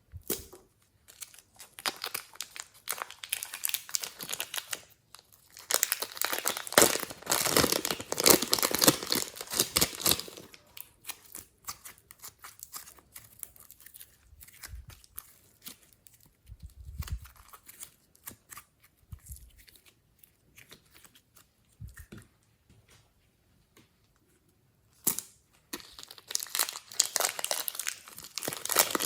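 Slime being worked by hand with crackling, sticky, squelchy noises that come in spells. The loudest and busiest spells fall in the first ten seconds and near the end, with quieter, scattered crackles in the middle.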